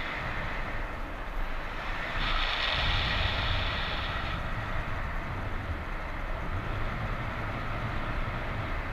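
Strong wind rushing over the microphone and buffeting it with low rumbles, with a stronger gust from about two seconds in that eases off about four seconds in.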